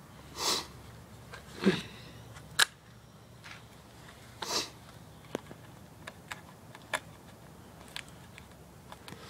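Scattered sharp clicks and light knocks of small tools and metal parts being handled, with a couple of short rustles, during hand work on a supercharger assembly.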